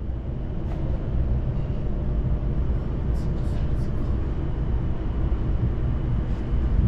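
Steady low rumble of wind buffeting the microphone, with sea noise, as on a ship's open deck.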